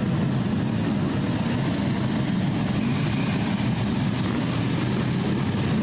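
A group of Harley-Davidson police motorcycles with V-twin engines running together as they ride in formation, making a steady, blended engine rumble.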